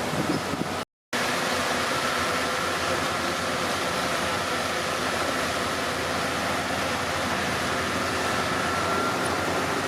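Bulldozer diesel engine running steadily with a faint steady whine. The sound cuts out completely for a moment about a second in.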